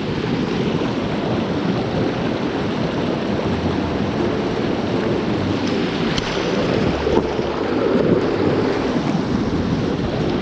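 River water rushing steadily past, a continuous even noise.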